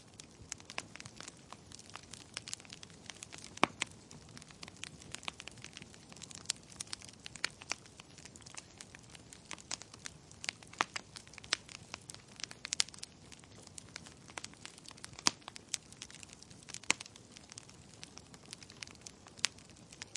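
Wood fire burning in a fireplace, crackling with irregular sharp pops and snaps over a faint low hiss of flames.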